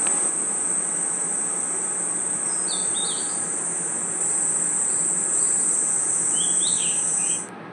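Dense, steady, high-pitched chorus of crickets and other night insects, with a few short chirping calls about three seconds in and again near the end. The chorus cuts off suddenly just before the end, leaving a quieter steady hiss.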